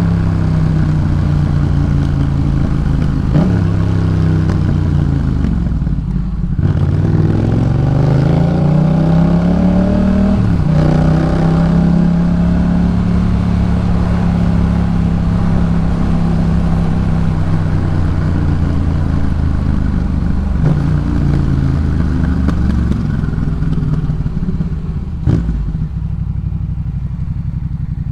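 2018 Yamaha MT-07's 689 cc parallel-twin engine through a Jeskap K4 full exhaust, under way. The engine note dips briefly, climbs steadily for about four seconds as it accelerates, and holds at a steady cruise. Near the end the note falls lower, and there is a single sharp click.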